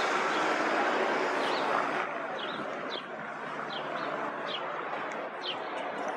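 A small bird chirping over and over, short high falling notes about two a second, over street traffic noise that eases over the first couple of seconds.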